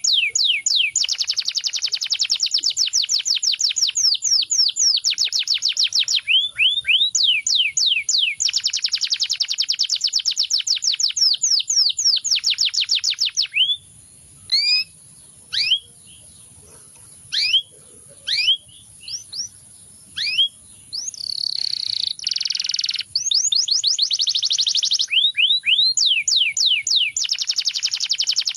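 Canary singing: fast trills of rapidly repeated rising notes, broken about halfway through by several seconds of scattered single chirps and a short held note, after which the fast trills resume.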